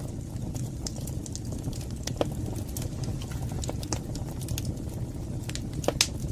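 Wood fire burning in a fireplace: a steady low rumble of flames with irregular sharp crackles and pops, the loudest pop near the end.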